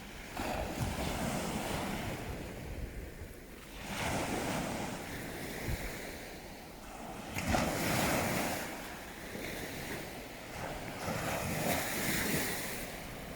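Sea waves washing in and receding, swelling about four times, with low wind rumble on the microphone.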